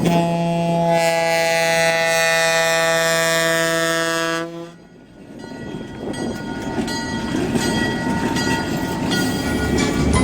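A locomotive air horn sounds one long chord of about four and a half seconds and cuts off suddenly. It is followed by the rumble and clicking of a passing train.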